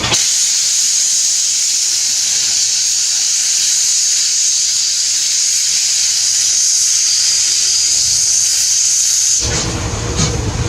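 Steam locomotive letting off steam: a loud, steady hiss that starts suddenly and cuts off about nine seconds in, after which a lower rumble returns.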